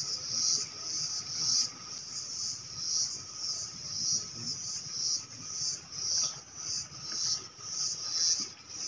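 Insects calling in a high-pitched chorus that swells and fades in a steady rhythm, about three pulses every two seconds.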